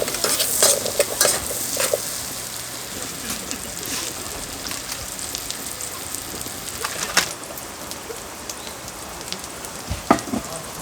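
Butter and food sizzling in a camp frying pan while being stirred, with the scrape and click of the utensil against the pan. The sizzle is loudest in the first two seconds, then settles to a steady quieter hiss.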